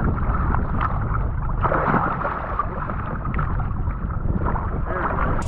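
Wind rumbling on the microphone, with water splashing and lapping against a boat hull that comes and goes, strongest about a second and a half in.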